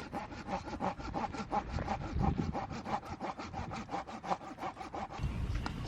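Hand saw cutting through wood, likely firewood for the campfire, in rapid, even back-and-forth strokes with a faint ringing from the blade. The sawing stops about five seconds in.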